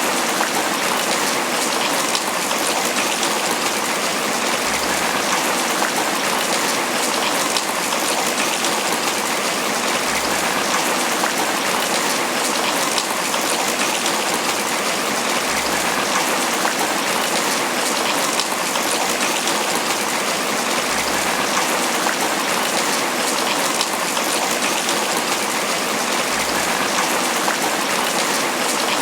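Steady tropical rain falling on banana leaves, a dense, even spatter of drops.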